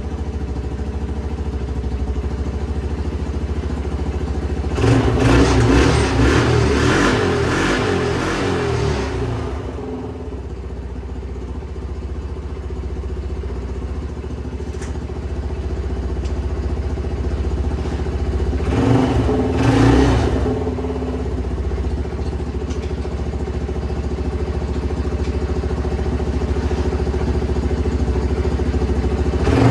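A small engine running steadily, revved up twice: for several seconds starting about five seconds in, and briefly again around nineteen seconds.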